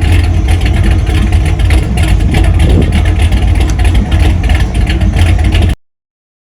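A car engine running loud and steady with a low exhaust rumble; the sound cuts off abruptly to silence near the end.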